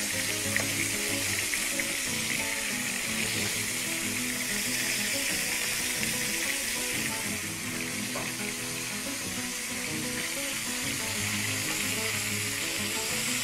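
Floured salt cod pieces sizzling steadily as they shallow-fry in hot oil in a pan, being turned with metal spoons. Background music plays under the sizzle.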